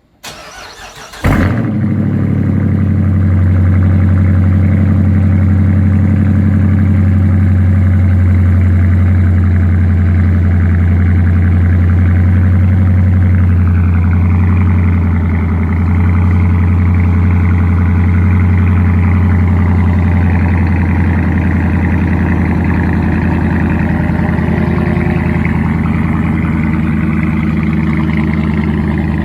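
Modded 2015 Dodge Challenger engine cold-started in below-freezing temperatures: the starter cranks for about a second, then the engine catches with a loud flare and settles into a steady cold-start idle.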